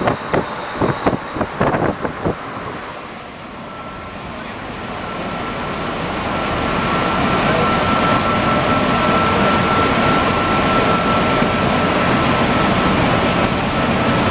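Alstom NS-74 rubber-tyred metro train running: a quick series of knocks for the first two seconds, then a rumble that eases off and builds back up to a steady level, with a steady high whine running through it.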